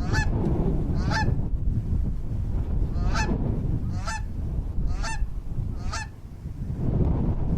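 A waterfowl, a goose or swan, giving six short nasal honks about a second apart with one longer pause, over a steady low rumble.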